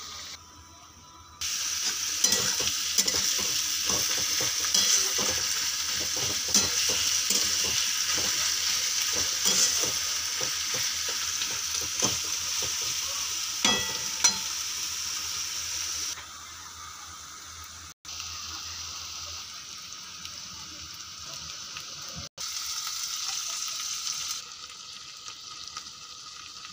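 Sliced onions frying in hot oil in a wok, sizzling loudly while a spatula stirs and scrapes the pan with many short clicks. Past the middle the sizzle carries on more quietly, broken by a few abrupt cuts.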